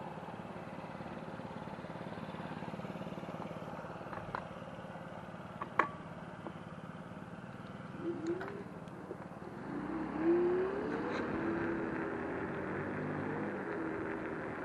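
Electric scooter riding along: a steady hum with road and wind noise, a sharp click about six seconds in, and a motor whine that rises in pitch and then holds steady about ten seconds in as it speeds up.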